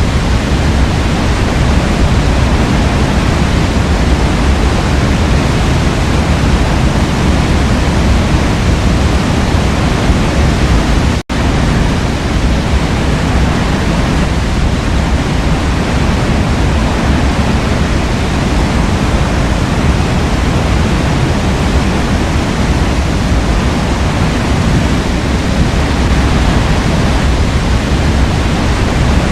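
Forest waterfall: water rushing and falling in a steady, loud roar of noise. The sound drops out for an instant about eleven seconds in.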